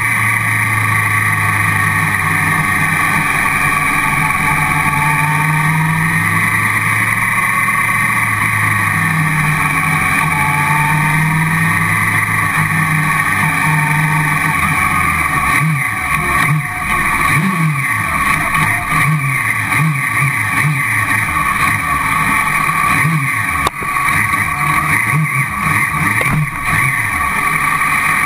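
Car cross buggy's engine heard from the cockpit. For about the first half it runs at steady low revs. After that the revs rise and fall rapidly again and again as the car accelerates away onto the track.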